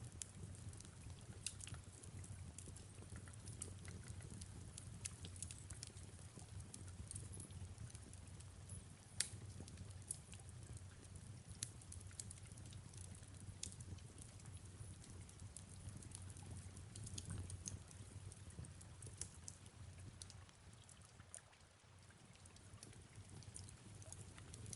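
Faint fireplace crackling: sharp pops at irregular intervals, one louder about nine seconds in, over a steady low rumble of soft rain.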